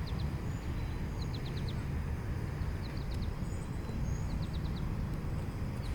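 Outdoor background: a steady low rumble, with short trills of a few quick high chirps repeating every second or so.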